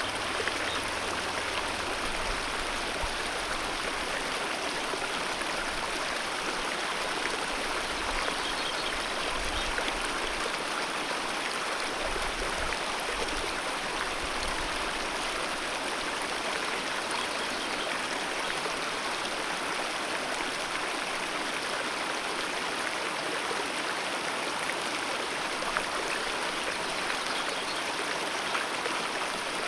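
Alpine mountain river rushing over rocks in a steady, continuous flow, with a bright, splashing hiss.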